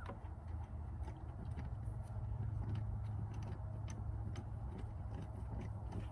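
Scattered light clicks and taps of hand tools working at the valve cover bolts, over a steady low hum.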